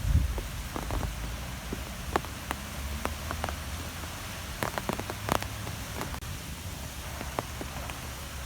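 Wind blowing with a low rumble, strongest in a gust at the start, with scattered light ticks and taps throughout.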